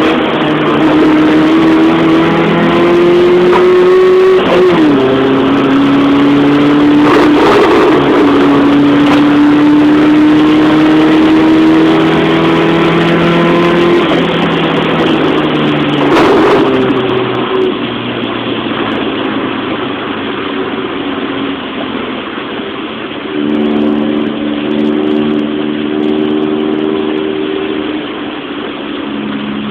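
Car engine heard on board under full acceleration, its pitch climbing steadily through a gear, dropping sharply at an upshift about four seconds in and again about fourteen seconds in. After about seventeen seconds the throttle comes off and the engine runs quieter and lower, settling to a steady note near the end.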